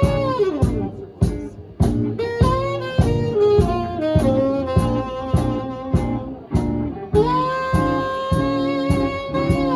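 Live swing band playing: a horn carries the melody with long held notes, the first sliding down about half a second in and another held from about seven seconds, over a steady drum beat about twice a second.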